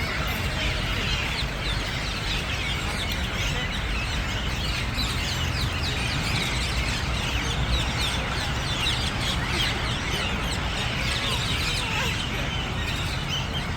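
Many birds calling at once: a dense mass of short, overlapping cries over a steady low rumble.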